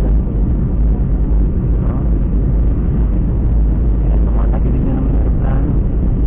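Steady, loud rumble of an airliner cabin: jet engine and airflow noise inside the aircraft, heavy in the low end.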